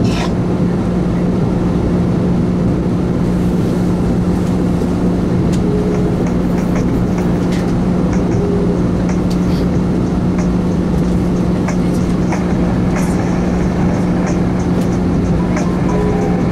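Long Island Rail Road passenger train running, heard from inside the car: a steady loud rumble with a constant low hum, and light clicks and rattles that grow more frequent in the second half.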